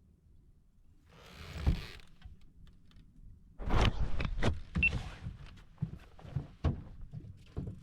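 Handling noises: a brief rustling hiss with a thump about a second and a half in, then an irregular run of knocks and clicks.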